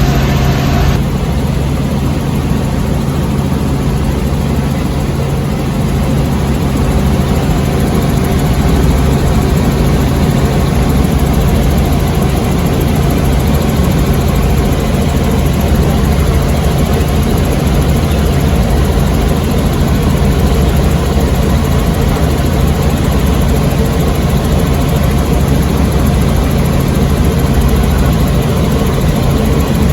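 Tour helicopter's engine and rotor noise: a loud, steady drone with a strong low hum.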